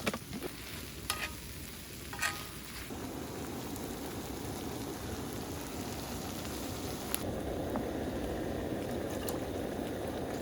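Squid stir-fry sizzling and crackling in a hot pan, with a few light clicks of a utensil at first. The sizzle swells about 3 seconds in and grows louder again around 7 seconds.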